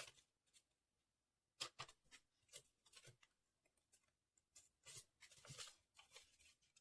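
Faint paper rustling and crinkling from a sheet of paper being folded and creased by hand, in scattered short crackles.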